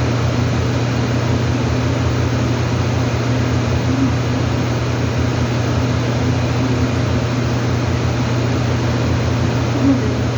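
Steady machine hum with an even rushing noise, like a fan or motor running continuously.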